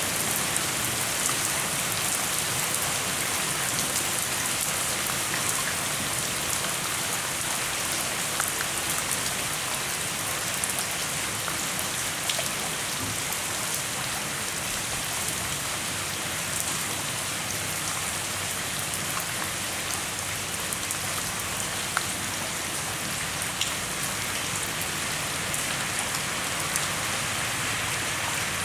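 Steady rain falling on surfaces, a continuous hiss with many individual drops ticking and now and then a louder single drop.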